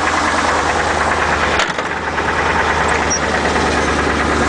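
Isuzu NPR box truck's 5.7-litre gasoline V8 idling with a rapid knock, the sign of an internal engine fault that needs repair. A sharp click about a second and a half in.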